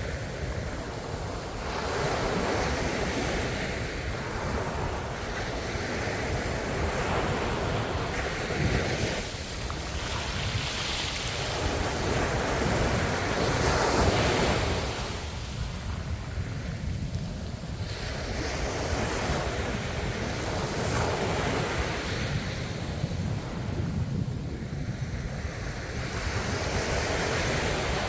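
Ocean waves breaking and washing on the shore in a steady series, each swell rising and falling every few seconds over a low rumble, with wind on the microphone.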